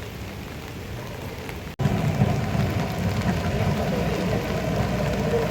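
Steady rushing noise of rain or flood water. It cuts out for an instant a little under two seconds in and comes back louder, with more low rumble.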